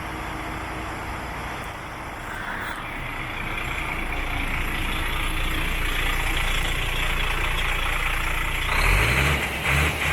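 DAF XF105 truck's Paccar MX six-cylinder diesel engine running steadily, growing louder, then revved up twice in quick succession near the end.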